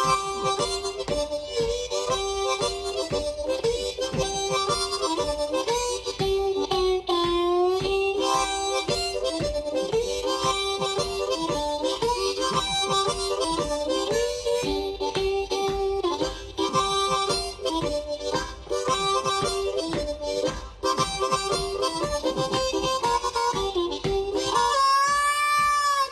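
Harmonica playing a blues riff in short repeated phrases. Some notes are bent down in pitch, a long bend comes about seven seconds in, and a high bent note is held near the end.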